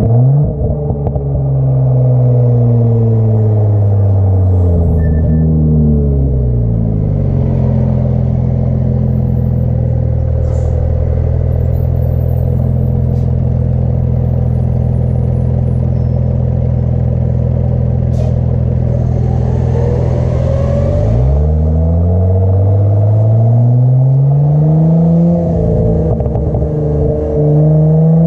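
Audi S5 B9's turbocharged V6 running through an AWE Track Edition exhaust: the engine note falls as the revs drop over the first several seconds, holds at a steady low drone for about fourteen seconds, then climbs steadily as the revs rise again near the end.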